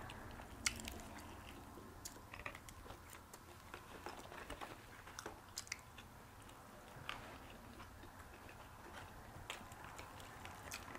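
Faint chewing and biting of crispy fried chicken, with scattered small crackles and clicks; the sharpest click comes under a second in.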